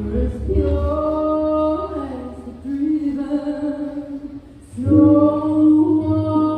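Music with held, sung vocal notes that step from pitch to pitch, over a low bass; the music drops away briefly about four seconds in and comes back loudly near the end.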